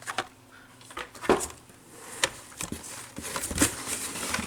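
Carded Hot Wheels toy cars being handled: light clicks and taps of the plastic blister packs and card backs, with some crinkly rustling, and the sharpest taps about a second, two seconds and three and a half seconds in.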